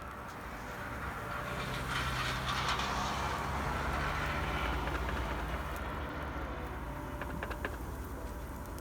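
A vehicle passing: a broad rush of noise that swells and fades over several seconds above a steady low hum, with a few sharp clicks near the end.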